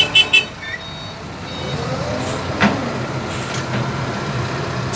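Heavy dump truck's diesel engine running and revving up under load, its pitch rising, with a few quick high beeps right at the start.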